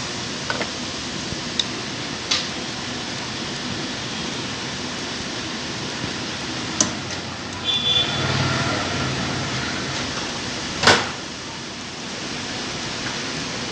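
Scattered small clicks and taps of metal parts being fitted to a sewing machine, over a steady hiss. The loudest knock comes about eleven seconds in.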